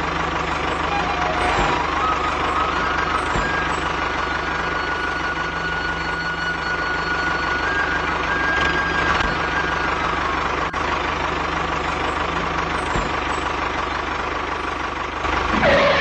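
A vehicle engine running steadily, with a thin high whine that steps up in pitch a few times and falls back about two-thirds of the way through, then cuts off abruptly at the end.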